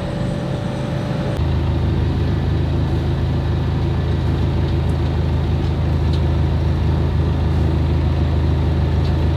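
Sailing yacht's inboard diesel engine running steadily under way, with a deep, even note that shifts slightly about a second and a half in.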